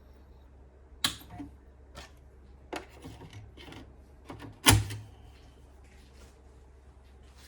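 A handful of irregular sharp clicks and knocks over a low steady hum, the loudest a knock with a dull thump a little past the middle.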